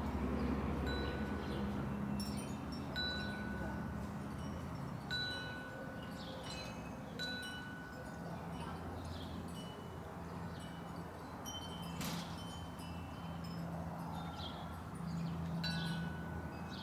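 A wind chime ringing, the same bright tones sounding again about every two seconds, with small birds chirping.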